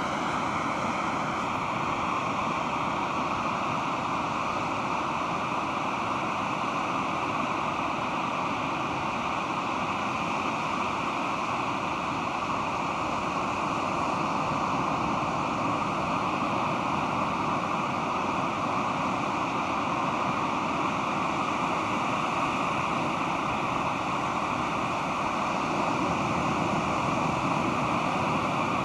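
Pacific Ocean surf washing onto the beach, a steady continuous roar of breaking waves.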